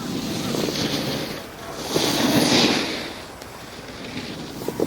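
Wind rushing over the microphone together with the hiss of sliding and carving on packed snow. It swells to its loudest about two to three seconds in, then fades.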